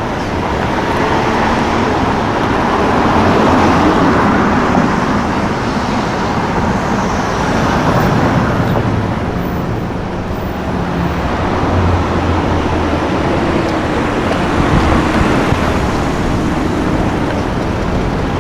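City street traffic: cars driving past, with engine and tyre noise swelling and fading three times as vehicles go by.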